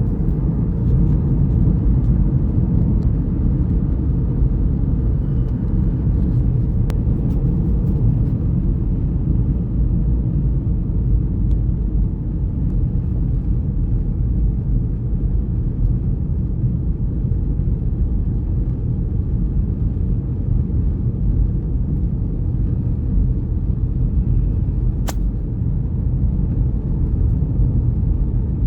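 Steady low rumble of a car driving along the road, with two faint clicks, one about a quarter of the way in and one near the end.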